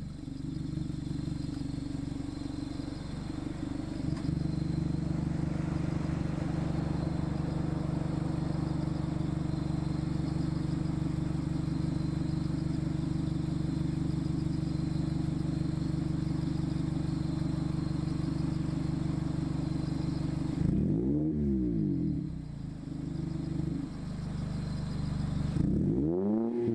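Mazda ND MX-5 Miata's four-cylinder engine running through an AIMGAIN valved aftermarket exhaust: a steady exhaust drone that grows louder a few seconds in and holds. Near the end come two quick throttle blips, the pitch rising and falling each time.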